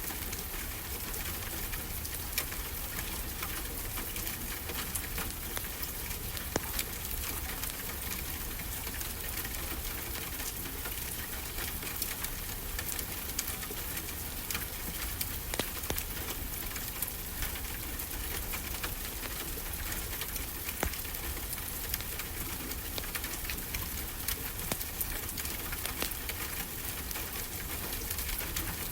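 Wood fire crackling, with scattered sharp pops over a steady rushing wash of ocean surf.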